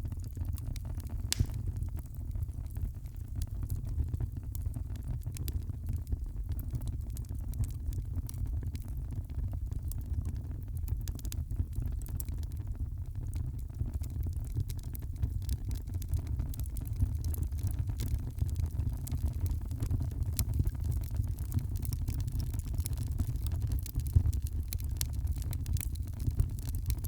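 Wood fire crackling in a fireplace: frequent small pops and snaps over a steady low rumble.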